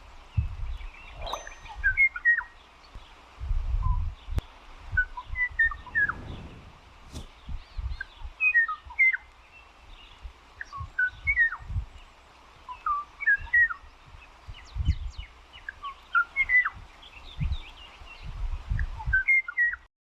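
A songbird singing in repeated phrases of short, quick chirping and whistled notes, over intermittent low rumbling noise.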